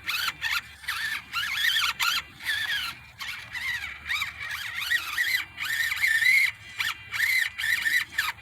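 Electric motor and gearbox of an Enduro24 Sendero 1/24-scale RC rock crawler whining in short stop-start spurts as the throttle is worked, its pitch rising and falling while the truck claws over obstacles and gets hung up.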